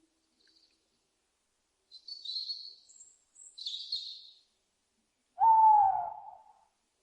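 An owl gives one loud call about a second long, its pitch falling slightly, near the end. Before it come two short, high, chirpy bird calls.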